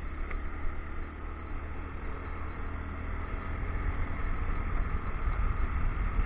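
Motorcycle engine running steadily under way, with wind and road noise on an action camera's microphone.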